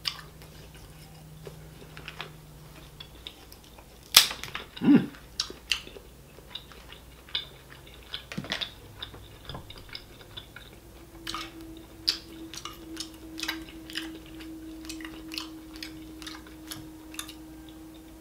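Close-up eating sounds: wet chewing and mouth smacks, mixed with short clicks and crackles as seafood shell is picked apart by hand.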